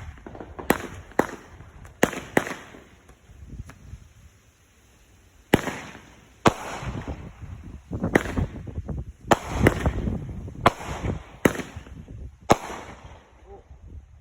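Fireworks going off: a dozen or so sharp bangs at irregular intervals, with low rumbling between them. There is a lull of a couple of seconds before the bangs come thicker again.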